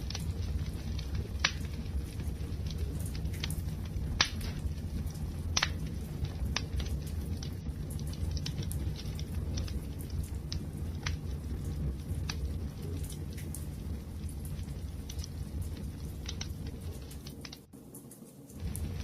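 Wood fire burning: a steady low rumble with sharp crackles and pops scattered through it, the loudest in the first six seconds. The sound dips briefly near the end.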